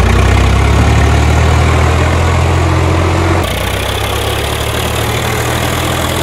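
Diesel engine of heavy farm or earthmoving machinery running steadily. About three and a half seconds in, the sound changes abruptly and the low engine note drops.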